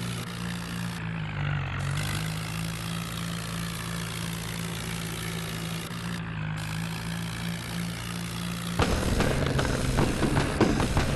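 New Holland tractor's diesel engine running steadily at an even pitch. About nine seconds in, louder music with a drumbeat starts over it.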